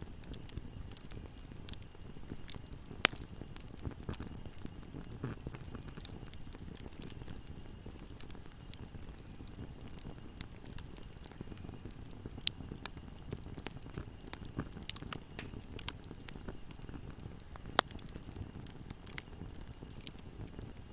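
Wood fire burning with a steady low rumble and frequent irregular crackles, with a few louder sharp pops.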